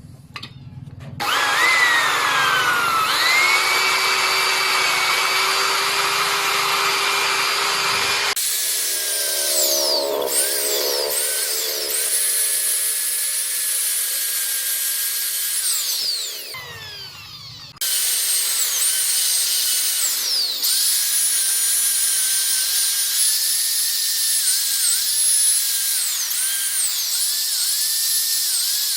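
Electric power tool running at high speed, buffing a motorcycle exhaust pipe, with a high whine that dips in pitch briefly again and again as it is pressed against the metal. The sound changes abruptly several times.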